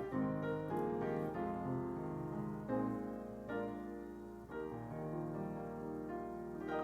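Piano music: slow chords and notes struck one after another and left to ring.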